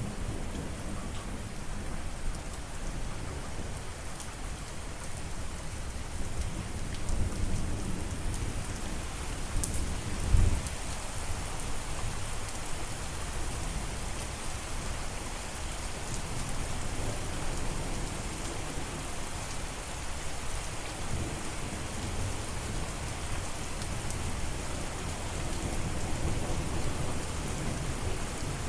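Steady rain falling, with low rolls of thunder; the loudest thunder peak comes about ten seconds in.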